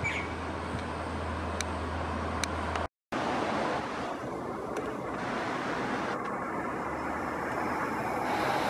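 Electric commuter trains approaching a station at a distance: a steady low rumble and hum mixed with road-traffic noise. The sound cuts out for a moment about three seconds in, then the rumble slowly grows louder as the next train comes closer.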